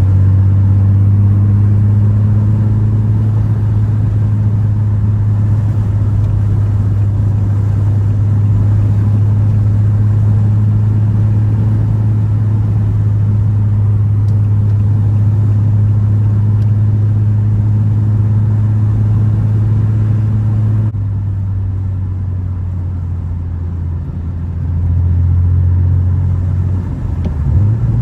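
Car engine droning at a steady cruise with road noise. It eases off a little about three quarters of the way through, then swells briefly and dips in pitch near the end.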